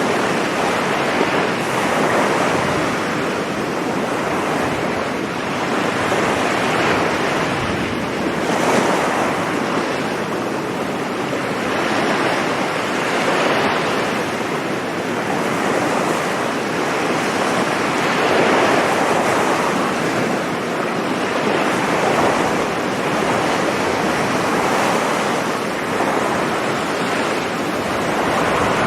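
Sea waves breaking and washing up on a sandy beach, a continuous surf rushing that swells every two or three seconds, with some wind on the microphone.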